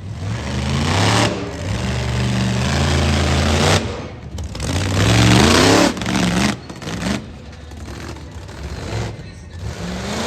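Monster truck engine revving hard in repeated surges, its pitch climbing and falling, then dropping back to a lower, uneven running in the second half.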